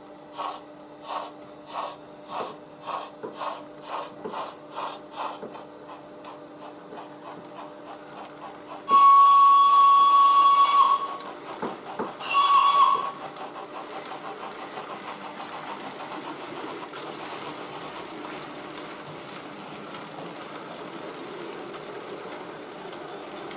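Model steam locomotive's digital sound decoder playing exhaust chuffs at about three a second, which fade out after about five seconds. Then a long whistle blast and a short second whistle, followed by a steady low hiss.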